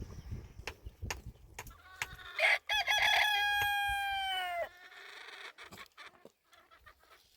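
A rooster crowing once: a short rising start, then a long call held at one pitch for about two seconds that cuts off sharply. A few light knocks and clicks come before it.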